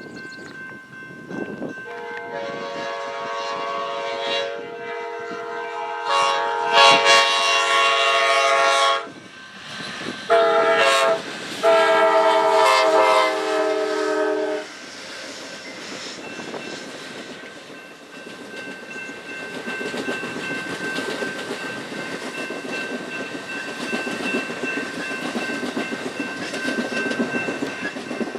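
Diesel locomotive's multi-tone air horn sounding a long blast, then a short one and another long one, followed by the train passing with a steady rumble and wheels clicking over the rail joints.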